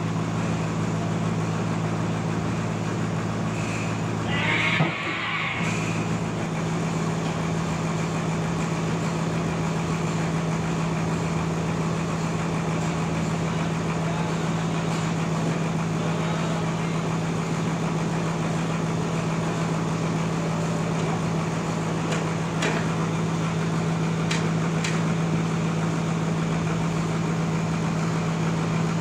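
Sawmill's engine running steadily with a constant hum. About five seconds in, a short hissing burst comes, and the lower part of the hum drops away, leaving one steady tone.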